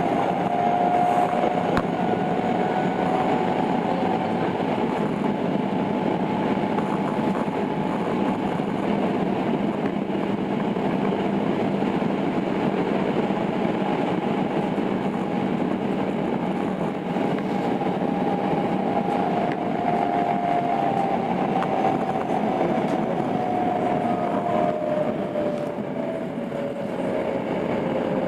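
Running noise of a Tokyo Metro 02 series subway train with IGBT inverter drive, heard on board between stations: a steady rush of wheels on rail with a faint motor whine that drifts in pitch and falls over the last few seconds.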